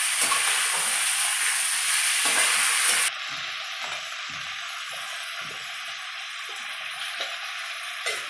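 Chicken pieces and onions sizzling in hot oil in a non-stick kadhai, stirred and scraped with a spatula in repeated short strokes. The sizzle drops sharply quieter about three seconds in.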